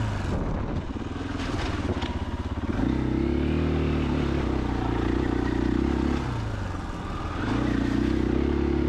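2021 KTM 500 EXC-F's single-cylinder four-stroke engine under way on a trail. It runs low and uneven for the first few seconds, with a couple of light knocks about two seconds in. It then holds a steady throttle, eases off about six seconds in and picks back up near the end.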